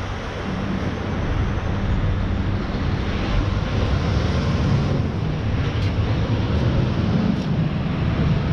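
A motor vehicle running steadily, its engine drone under road and wind noise.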